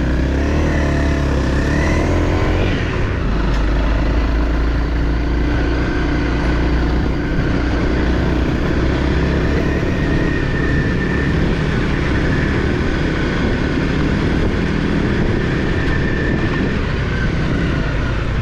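Off-road motorcycle engine running under way, revving up in the first few seconds and then holding a steady pace.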